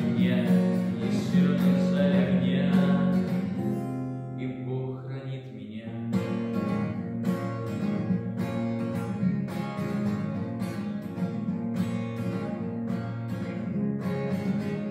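Acoustic guitar music, an instrumental passage of the song: held chords at first, then, after a brief softer stretch, steady strummed chords about two a second.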